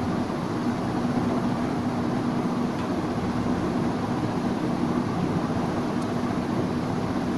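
A machine running steadily, with a constant low hum over an even whirr and no change in level.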